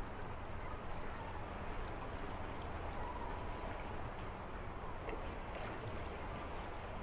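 Steady natural outdoor ambience: a constant rushing noise with a low rumble and faint scattered ticks.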